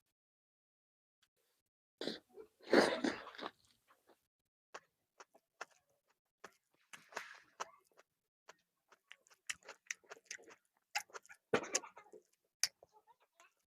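Close-up chewing and mouth sounds of a person eating a chicken leg: a louder burst about two seconds in, then a run of scattered short clicks and smacks.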